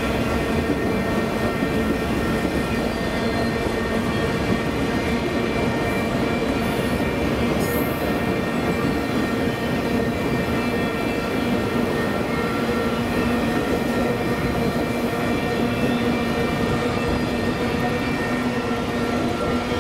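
Multilevel autorack freight cars rolling past on steel rails: a steady rumble of wheels on track, with constant ringing tones over it.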